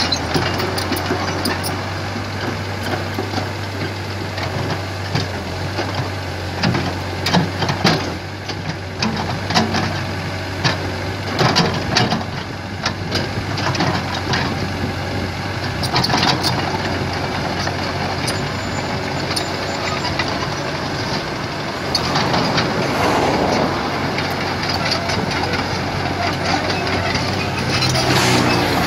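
Komatsu PC75 excavator's diesel engine running steadily under work, with a cluster of sharp, irregular knocks and clanks from the machine about a third of the way in and a few more later.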